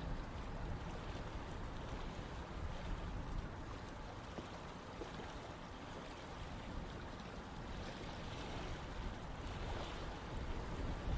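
Running water flowing steadily: an even rush with a low rumble underneath.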